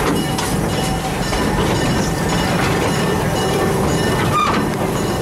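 Serengeti Express park train rolling along its track, heard from an open-sided passenger car: a steady rumble of wheels and running gear with light clacks over the rail joints.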